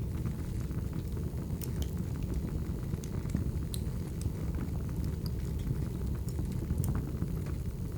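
Burning firewood crackling over a steady low rumble, with scattered sharp pops every second or so.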